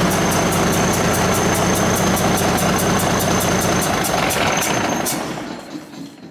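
1964 White truck engine running steadily on its first start after about ten years of sitting, with a fast light ticking over it. It is shut off about five seconds in and runs down to a stop.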